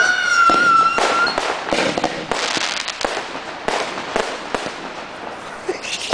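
Fireworks going off: a high steady whistle from a whistling firework for about the first second, then a rapid string of bangs and crackling pops that thin out toward the end.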